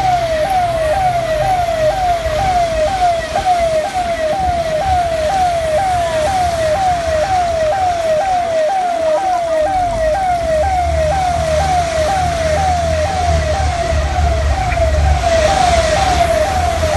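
A siren-like electronic tone that sweeps down in pitch and snaps back up about twice a second, repeating steadily, over a constant hiss and a low rumble that grows stronger about ten seconds in.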